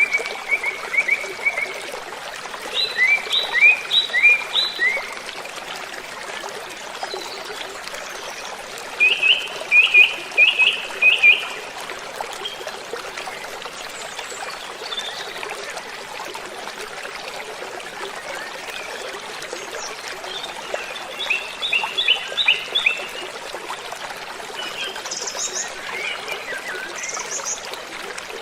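Steady rushing of falling water, with bird calls every few seconds: bursts of four to six quick, bright chirping notes.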